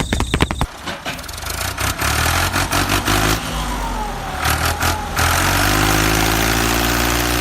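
An engine running steadily, with a low hum that grows louder about two seconds in and a higher drone joining about five seconds in.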